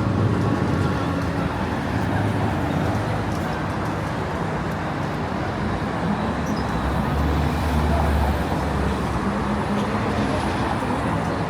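Street traffic: a steady wash of road noise from passing vehicles, with a low engine rumble swelling about seven seconds in.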